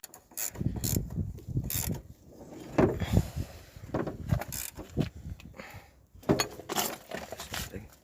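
Irregular metallic clicks, clinks and knocks of hand tools and parts being worked in a car's engine bay.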